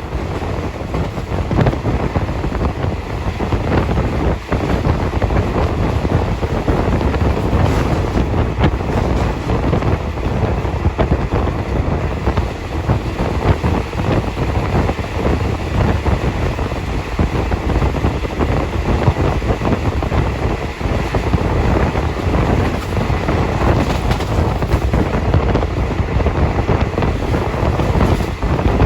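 Passenger train running at speed: a steady rumble of wheels on the track, with wind buffeting the microphone.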